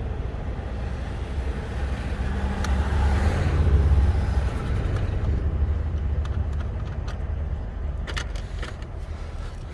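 Low motor-vehicle engine rumble that swells to its loudest about three to four seconds in and then eases off, with a few sharp clicks near the end.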